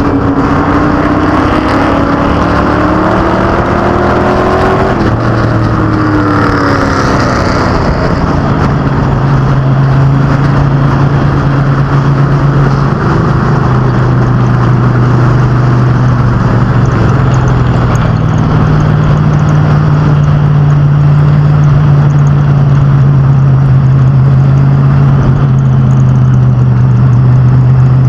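Oval-track street stock cars and pro trucks running as a pack. An engine's pitch rises over the first few seconds and drops off about five seconds in, then the engines settle into a steady, loud drone.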